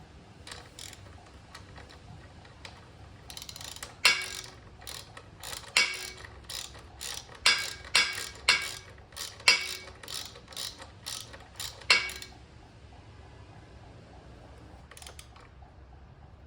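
Hand ratchet wrench clicking stroke by stroke as thread-locked bolts on the ATV's rear axle assembly are tightened. There is a run of about fifteen sharp clicks from about four seconds in to about twelve seconds, and it goes quiet after that.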